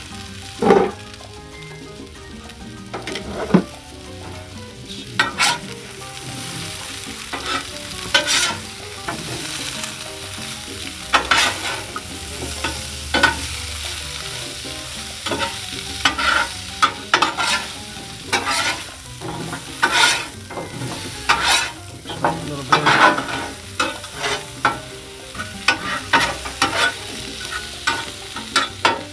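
Cut potato fries sizzling on a Blackstone 22-inch steel flat-top griddle while two metal spatulas scrape and clack against the griddle surface, turning them over. Many short scrapes and clicks come over a steady sizzle.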